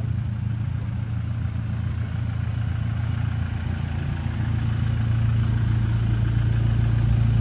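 Motor vehicle engine running steadily with a low hum, growing a little louder over the last few seconds.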